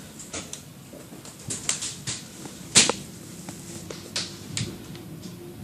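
Interior of an electric commuter rail car: a steady low hum with irregular sharp clicks and knocks, the loudest about three seconds in.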